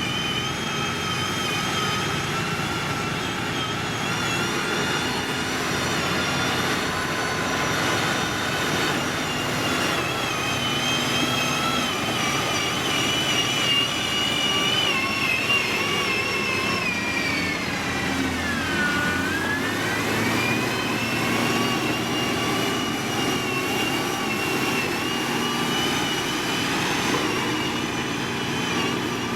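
Diesel engine of heavy road-construction machinery running steadily with a high whine over it. About nineteen seconds in, the whine drops sharply in pitch, then climbs back up.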